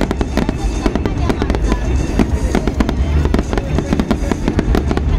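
Fireworks show at its height: a rapid, unbroken string of bangs and crackles over a continuous deep booming rumble.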